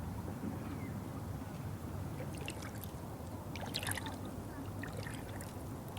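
Water moving with a steady low rush, and small scattered splashes or drips from about two seconds in.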